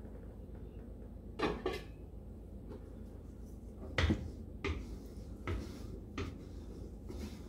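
A utensil stirring soup in an enamel graniteware stockpot, knocking against the pot several times in short sharp clinks, the loudest about four seconds in.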